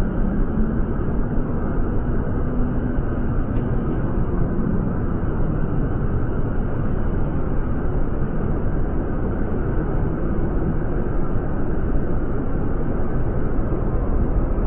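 Steady rushing noise of fast river water in whitewater rapids.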